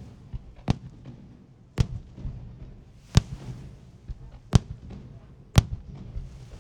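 Aerial firework shells bursting overhead: five loud bangs roughly a second apart, with fainter bangs between them and a brief hiss after some of the bursts.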